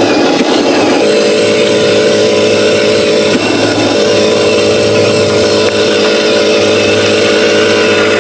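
Truck engine sound effect, a loud steady diesel-style drone for the RC logging truck. It breaks off briefly about three and a half seconds in and starts again, like a loop repeating.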